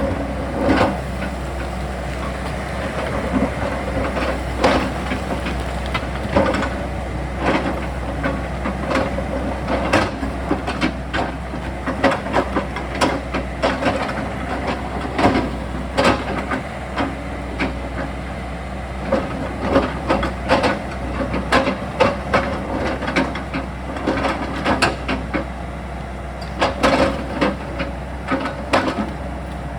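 Excavator engine running steadily under load while its bucket scrapes and knocks against rock, with irregular sharp clacks of stones striking each other throughout.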